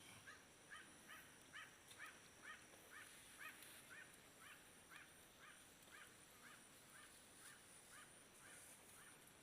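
Faint animal call repeated evenly about twice a second, each a short rising note, with a steady high-pitched whine above it.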